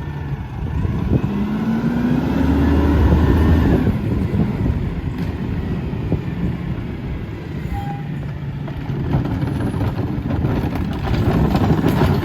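Diesel engine of a Mack MRU rear-loader garbage truck revving up, rising in pitch over a couple of seconds, then dropping back to a steady run with some mechanical clatter.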